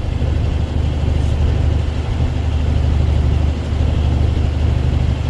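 Dump truck's diesel engine running, heard from inside the cab as a steady low drone.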